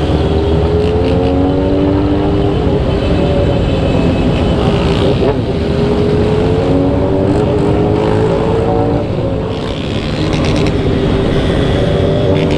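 Motorcycle engine running under way, its pitch climbing as it pulls through the revs, with a brief easing off the throttle about nine to ten seconds in before it settles to a steady pitch.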